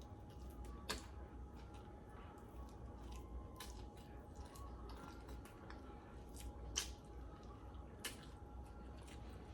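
Wet, close-up eating sounds of sauce-covered chicken wings being chewed: soft smacking and squishing with scattered small clicks, three of them sharper than the rest.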